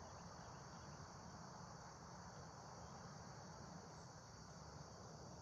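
Faint, steady high-pitched chorus of insects, with a low background rumble.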